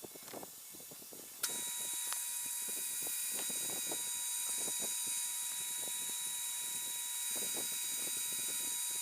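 A metal lathe's motor switches on about a second and a half in and runs steadily with a high whine and hiss. A few light clicks and knocks of handling come before and through it.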